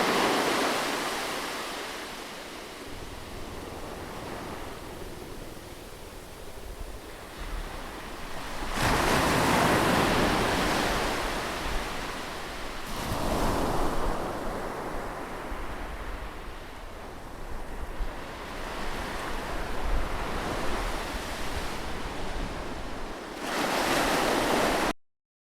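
Ocean waves breaking on a beach, the surf swelling into loud surges and ebbing between them, with some wind noise on the microphone. The sound cuts off abruptly at the very end.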